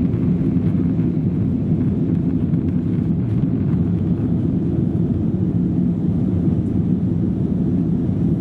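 Steady low rumble of engine and airflow noise inside the cabin of an Airbus A321 climbing after take-off, heard from a seat at the back of the aircraft.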